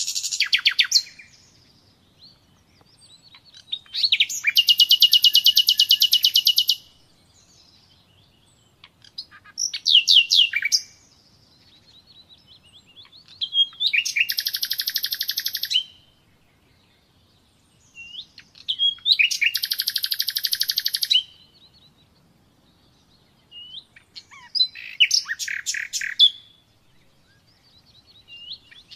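Common nightingale singing: separate phrases of one to three seconds, several of them fast trills of repeated notes, with pauses of a few seconds between them.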